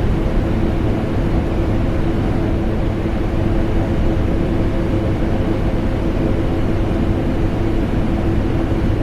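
Vacuum cleaner motor running continuously, mixed with air conditioner noise: a steady, unchanging rush with a deep rumble and a constant mid-pitched hum.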